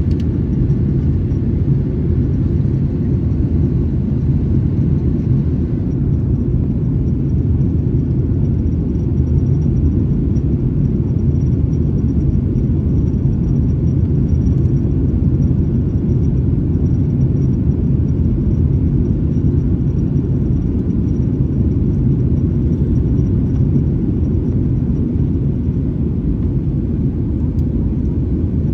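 Steady cabin rumble of a Boeing 737-900ER's CFM56-7B engines and airflow, heard from inside the cabin, with a faint high whine above it.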